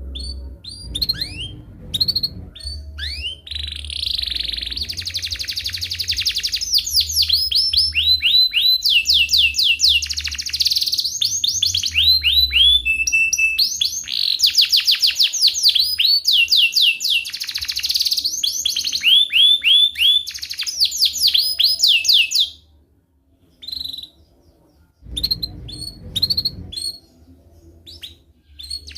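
Domestic canary singing a long song of fast rolling trills, rapid runs of repeated down-slurred notes. About three-quarters of the way through the song breaks off, leaving only a few scattered short chirps.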